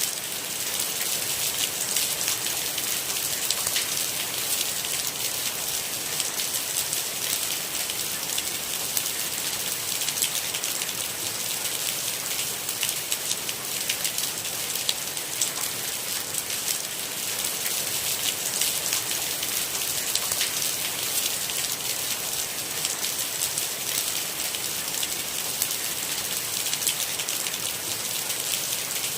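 Steady rain, a dense even hiss of countless small drop hits, strongest in the high range, with no thunder.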